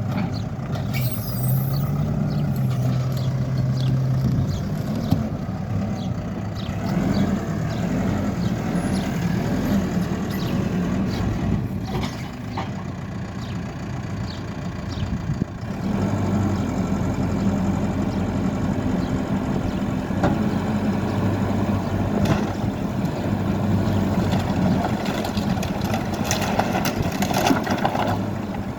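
Hidromek K4 Alpha backhoe loader's diesel engine working under load, its pitch rising and falling as the hydraulics are worked, with scattered knocks and crunches of debris. The engine settles lower for a few seconds in the middle, then picks up again.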